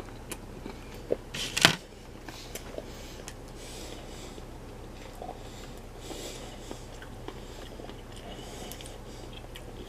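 A person chewing a bite of a fruit-and-nut granola trail bar with the mouth closed: faint soft clicks and squishy chewing, with one louder sharp crackle about a second and a half in.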